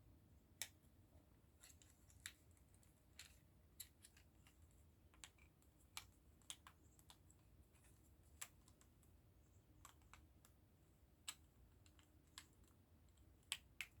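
Faint, irregular clicks and taps of small plastic model-kit parts being handled and pressed together. A clear plastic piece is being fitted that won't seat properly.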